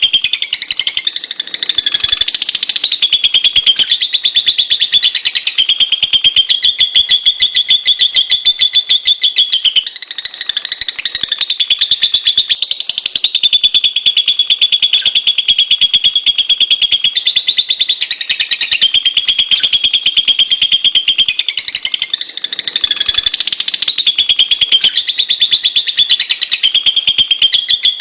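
Lovebirds chattering: a loud, unbroken run of very rapid, shrill high chirps.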